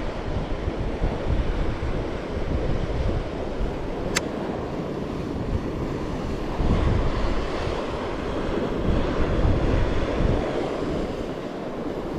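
Ocean surf washing on a rocky shore, with strong wind buffeting the microphone in gusts. A single short, sharp high click about four seconds in.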